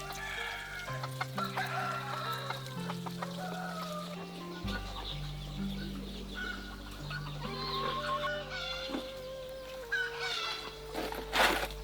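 Chickens clucking over soft background music of held, slowly changing chords, with a short noisy burst near the end.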